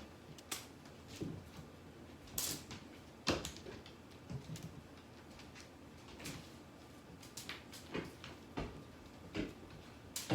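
Irregular light taps, scuffs and rustling swishes from playing with a cat, with a sharper knock about three seconds in.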